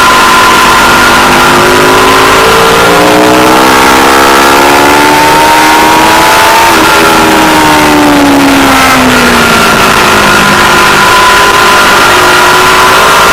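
Aprilia Tuono V4 Factory's V4 engine at track speed, heard through a loud rushing noise on a poor camera microphone that records near full scale. The engine note climbs steadily for several seconds as the bike accelerates. About seven seconds in it drops as the bike slows, then it holds a steady pitch near the end.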